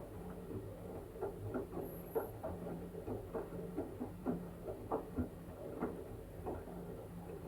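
Washing machine mid-wash, its drum turning a wet blanket: irregular soft thumps and splashy sloshing over a steady low motor hum.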